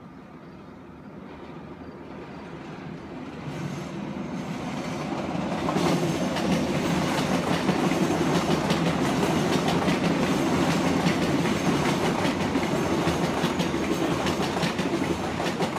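A train passing close by: it builds up over the first few seconds, runs loud with a rapid clattering of wheels on rail, and begins to fade near the end.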